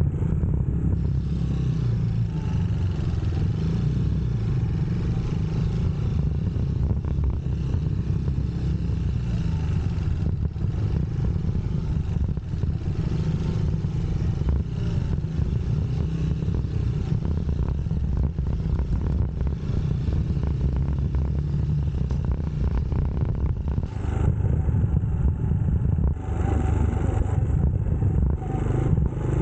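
UM Scrambler X motorcycle running steadily while being ridden, heard from on the bike.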